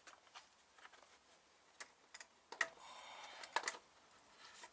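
Faint handling noise: scattered small clicks and taps, with the sharpest about two, two and a half and three and a half seconds in, and a light rustle between the last two.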